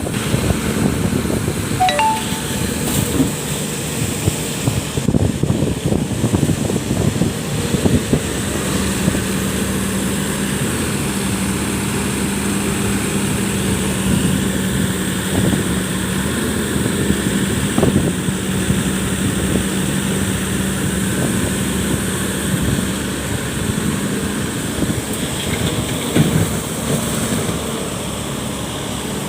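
Excavator's diesel engine running steadily with a rough low rumble, and a steady hum rising above it for a stretch in the middle.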